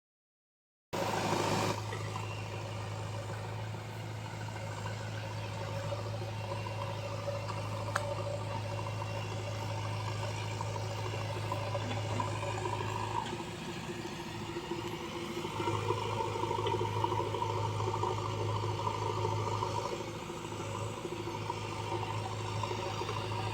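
Tractor diesel engine running steadily, with a brief dip in its low hum about halfway through.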